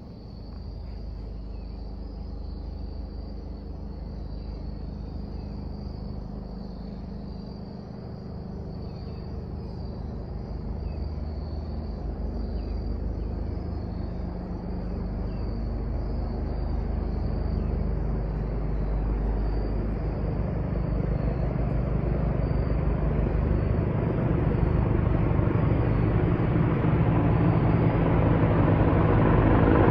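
CH-53 heavy-lift helicopter approaching, its rotor and turbine rumble growing steadily louder. Insects chirp steadily in a high band that fades out about two-thirds of the way through.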